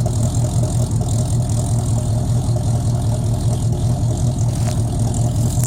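AMC 360 V8 in a Jeep J-series truck idling steadily, its exhaust going through a Jones Max Flow muffler.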